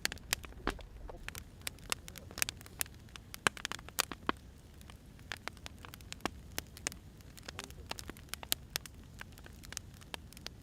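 Firewood burning, crackling with irregular sharp pops and snaps over a faint low hiss.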